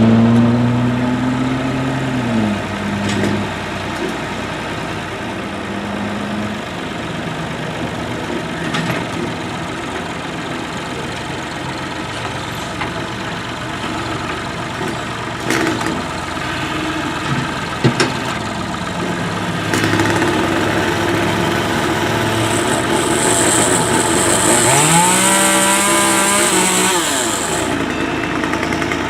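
An engine running. It winds down in pitch about two seconds in, runs on steadily, then revs up near the end and drops back.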